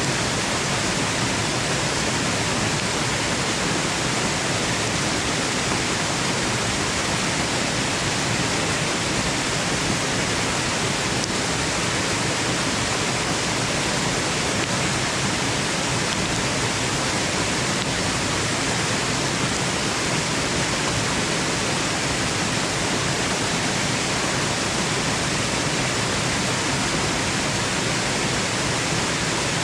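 Waterfall rushing: a steady, even hiss of falling water that doesn't change.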